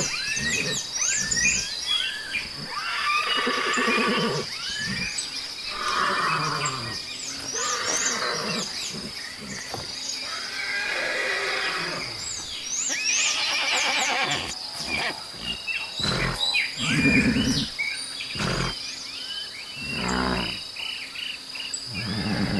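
Horses neighing and whinnying again and again, some calls quavering. A steady high-pitched drone and small high chirps run underneath.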